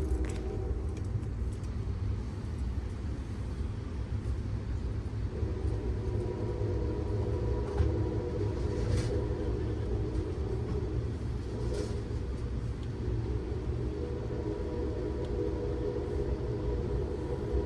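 Steady low rumble of a moving passenger train rolling on the rails, with a faint ringing hum and a couple of brief clicks.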